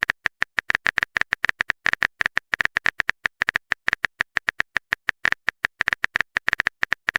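Typing sound effect: a fast, uneven run of short clicks, about nine a second.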